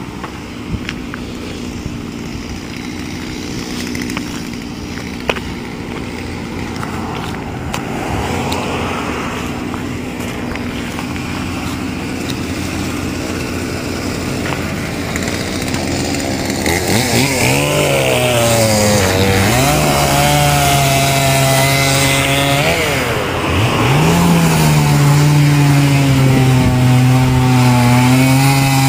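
Two-stroke chainsaw running: a steady engine hum at first, then about halfway through it gets much louder and revs up and down several times before holding a steady high rev.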